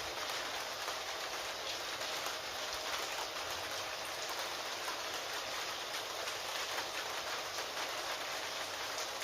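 Steady rain falling on a surface, with faint scattered clicks of computer keyboard typing mixed in.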